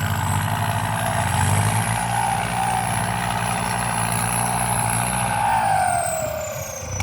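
Kubota M8808 tractor's turbo-diesel engine running, with a whining newly replaced turbocharger over the engine note. In the last second or so the turbo whine and the engine fall in pitch as it eases off.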